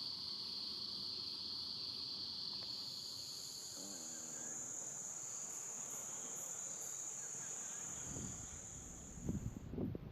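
Insects singing as a steady, high-pitched continuous drone: one pitch fades out about halfway through while a higher one carries on almost to the end. Low rumbling thumps come in over the last couple of seconds.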